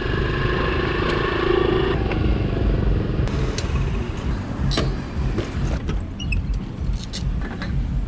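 A Honda CT70's small 70cc single-cylinder four-stroke engine runs steadily and then cuts off about two seconds in. After that there is a low rumble and a few scattered light clicks.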